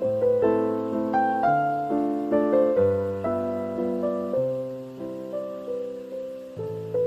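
Background music: a slow, gentle piano melody with chords.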